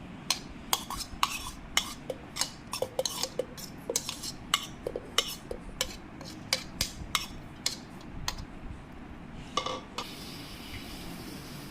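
Quick, irregular metal-on-metal clinks and knocks of kitchen utensils, about three a second, while dried anchovies are handled for grinding. Near the end the clinking stops and a steady low noise takes over.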